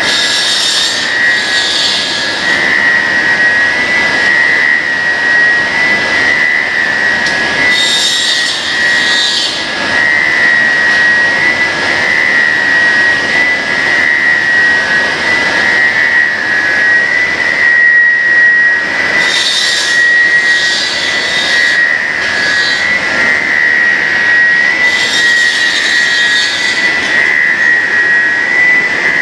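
Cutting machine for extruded pet-treat sticks running with a steady high-pitched whine. Bursts of hiss come and go every several seconds, near the start, around eight seconds in, around twenty seconds in and again near the end.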